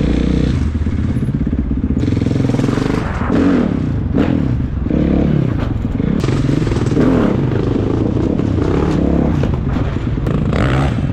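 Dirt bike engines running, with the revs rising and falling, and a few short knocks and clatters.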